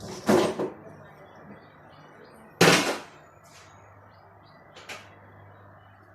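Knocks from installation work: a quick double knock, then a louder clatter about two seconds later and a faint tap near the end, over a steady low hum.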